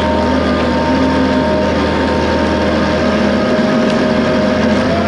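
John Deere 850 crawler dozer's diesel engine running steadily while pushing trees, with a constant whine over it.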